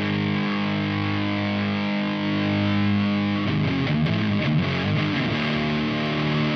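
Electric guitar played through an Ibanez Metal Charger distortion pedal: a distorted chord rings out for about three and a half seconds, then a quick run of picked notes leads into another held chord.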